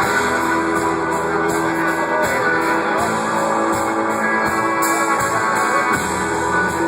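Live rock band playing, with strummed guitars prominent.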